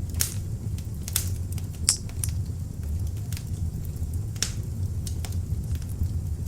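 Beech-wood log fire burning in an open fireplace, with a steady low rumble of the flames and irregular sharp crackles and pops, the loudest about two seconds in.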